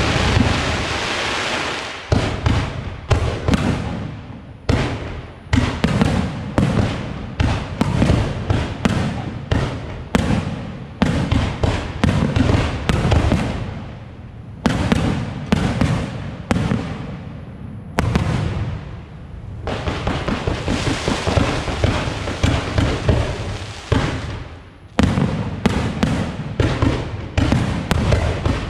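Aerial fireworks shells going off in rapid succession: a long run of sharp bangs, often several a second. There are stretches of continuous rushing noise at the start and again about two-thirds through.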